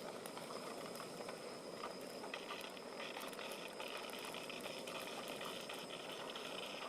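Portable gas camp stove burning steadily under a kettle of water heating for coffee, with a higher hiss joining in about two seconds in.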